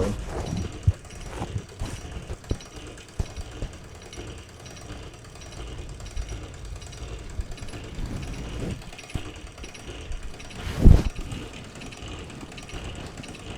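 Wilesco D419 live-steam showman's engine running, its gear train clattering quickly with a crunchy spot where the slightly off-true middle drive gear binds against the small gear on the flywheel. There is one loud thump about three-quarters of the way through.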